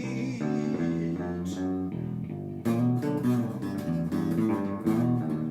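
Instrumental band music: guitar and bass guitar playing with no singing, the guitar strumming comes in harder about two and a half seconds in.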